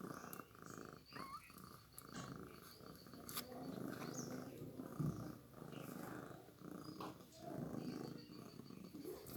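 Cat purring, a faint continuous rumble with a few small clicks over it.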